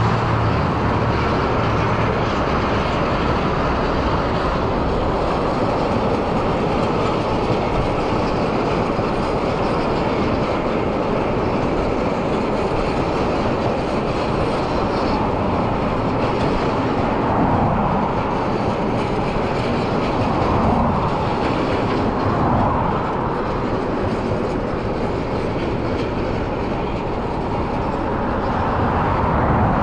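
A train rolling past on the rails: steady, loud noise of wheels and wagons running on the track.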